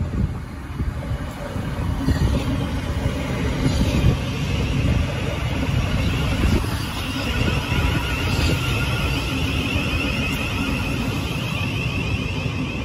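Thameslink Class 700 electric multiple unit running along the platform, its wheels rumbling steadily on the rails, with a high whine coming in over the rumble from about six seconds in.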